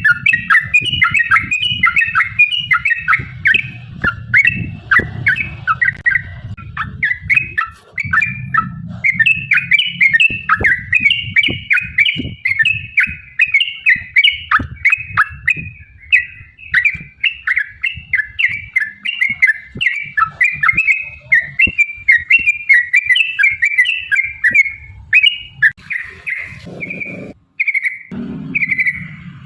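Yellow-vented bulbul (trucukan) singing a long, fast, unbroken run of short bubbly chirping notes, the rapid 'ropel' song used as a lure to set other bulbuls singing.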